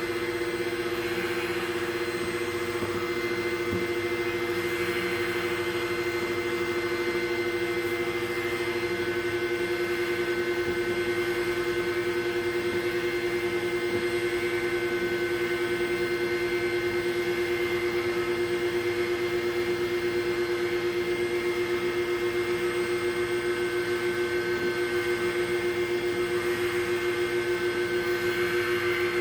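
Motor of a pet grooming vacuum with a suction clipper, running steadily with an even hum and whoosh of air.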